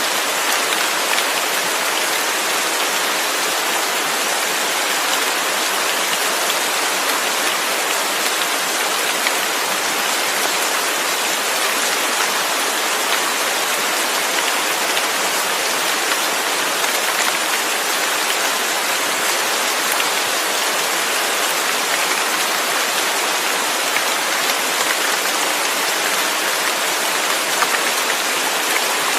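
Steady heavy rain falling, a dense, even hiss of countless drops with faint patters of single drops standing out.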